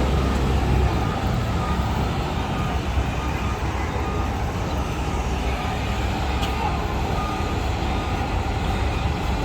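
Steady low rumble of heavy vehicle traffic, with faint short beeps now and then.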